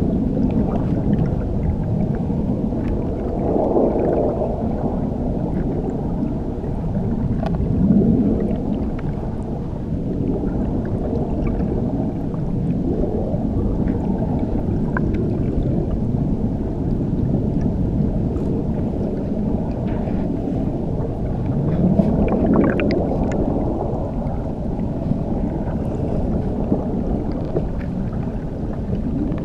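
Underwater recording beneath a waterfall: a muffled, steady rumble of churning water, all its sound held low, swelling louder a few times, with faint scattered ticks and clicks.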